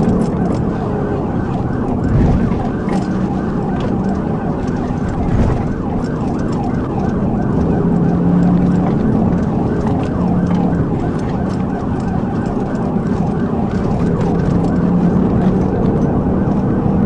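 Police car siren in a fast rising-and-falling yelp, over the steady engine and road rumble of a patrol car at speed during a pursuit.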